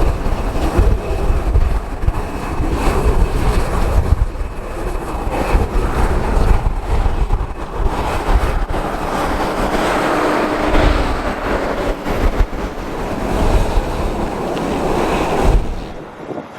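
Strong wind buffeting the microphone with a heavy low rumble, under the jet engine noise of a landing American Airlines Boeing 737-800, which swells around the middle. The sound cuts off suddenly near the end.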